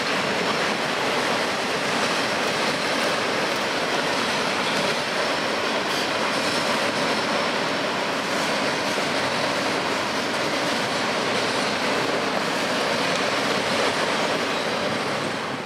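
Freight train of autorack cars rolling past, a steady noise of steel wheels on rail. The noise drops off near the end as the last car goes by.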